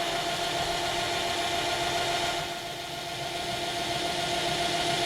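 A metalworking machine tool running steadily with a centre drill set up in it, a constant motor hum with a steady whine over a hiss; it eases off briefly about halfway through.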